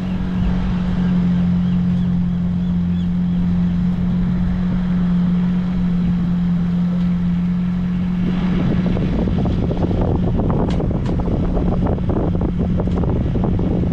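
Sailboat's outboard motor running steadily at a constant speed, a continuous even hum. About two-thirds of the way in, a rough crackling noise joins it.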